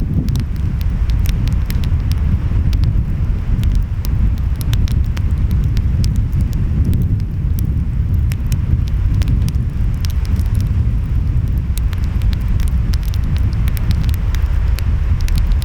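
Fireplace fire crackling, with many sharp, irregular pops, over a steady low rumble of ocean waves and wind.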